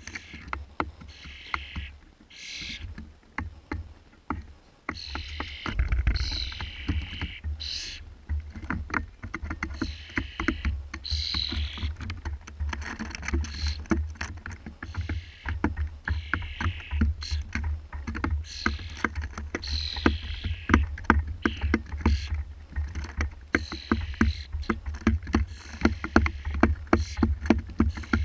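Fledgling starling giving harsh, raspy begging calls while being fed, repeated every second or two. Many sharp clicks and a steady low rumble run underneath.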